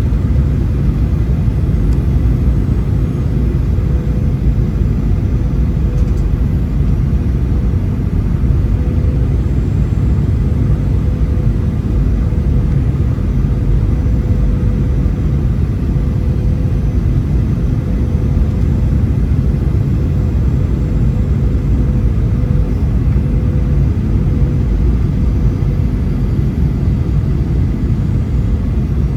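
Boeing 737 cabin noise: a steady low rumble of engines and airflow with a constant hum over it, heard from inside the passenger cabin.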